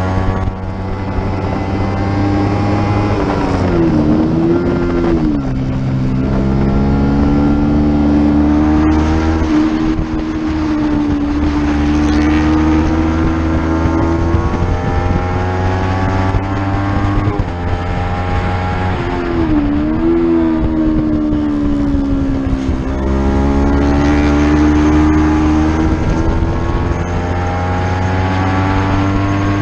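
Racing motorcycle engine running hard at high revs. The revs dip and climb back about four seconds in and again about twenty seconds in.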